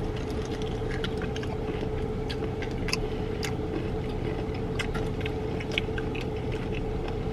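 People chewing crispy Doritos-coated fried chicken wings, with scattered small crunches and mouth clicks over a steady low hum inside a car.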